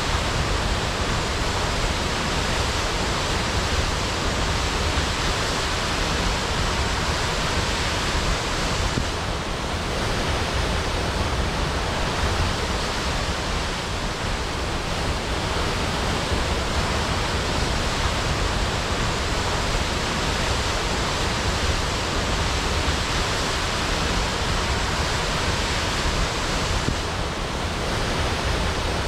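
Waterfall crashing, a steady, dense roar of falling water.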